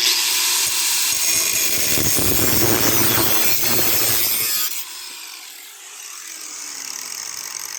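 Power tool, most likely an angle grinder, cutting through a steel lawnmower-handle tube: loud rasping cut for nearly five seconds, then a sudden drop to a quieter whir with falling pitch as the tool comes off the work and winds down.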